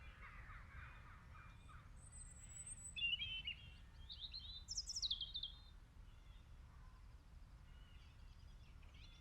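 Birds chirping faintly, with a short cluster of quick chirps in the middle, over low steady background noise.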